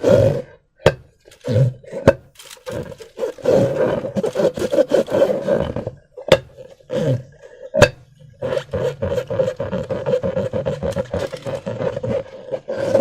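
Rubber balloons and slime being squeezed and handled: a buzzing rasp that holds around one pitch and starts and stops in stretches, with several sharp snaps and clicks.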